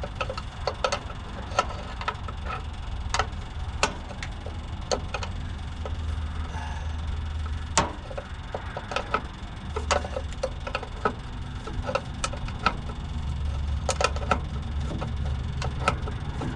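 Electric fuel pump clicking irregularly, several ticks a second, as it primes the fuel system of a Detroit Diesel 6-71, over a low steady hum.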